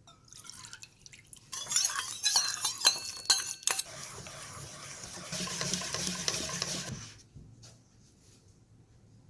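A metal utensil clinking against a bowl while mixing a liquid batter, with several sharp ringing clinks, followed by a couple of seconds of steady stirring.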